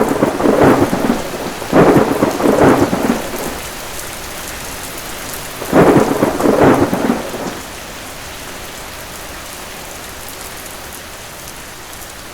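Rainstorm: steady heavy rain with three rolls of thunder, one at the start, one about two seconds in and one about six seconds in, after which only the rain goes on.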